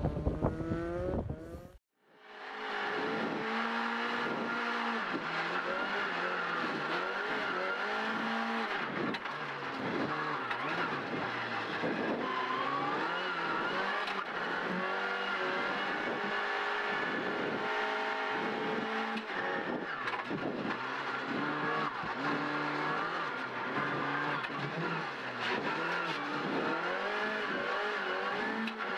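Ford Fiesta R2's 1.6-litre engine heard from inside the cabin while the car is driven hard: the pitch rises and falls repeatedly as it accelerates, shifts and lifts for corners. About two seconds in the sound cuts out briefly, switching from the car heard from outside to the in-car sound.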